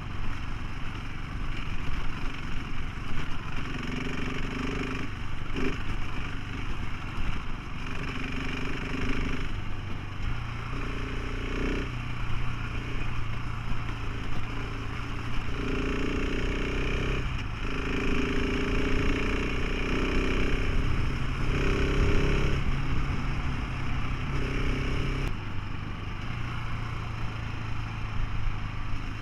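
Motorcycle engine running as the bike is ridden, its note stepping up and down several times with the throttle, over a steady low rumble of wind and road.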